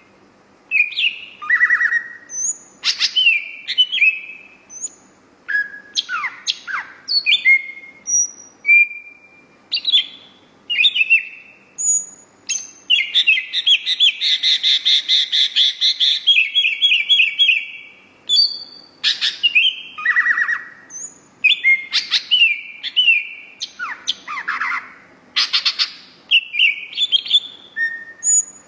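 A songbird sold as a cucak rowo hijau sings a loud, varied song of short whistles and quick sweeping notes. A long rapid trill runs through the middle of it.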